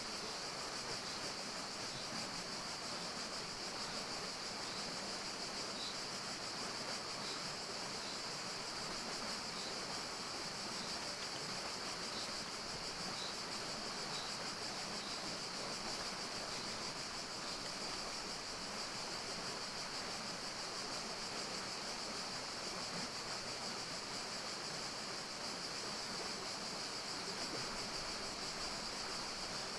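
Steady forest ambience: an even rushing hiss with a constant high-pitched hiss on top, and faint short chirps repeating through the first half.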